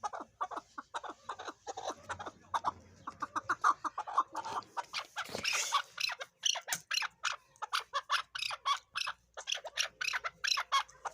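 Chukar partridge calling: a long run of short clucking notes, several a second, which turn higher-pitched and louder after about five seconds.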